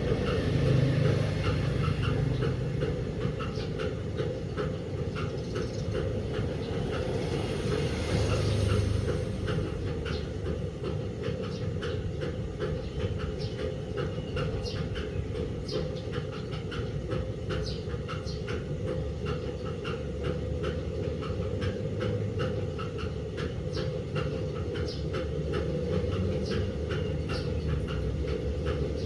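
DELTA 16 kg washing machine running, a steady low rumble with a regular train of light clicks over it.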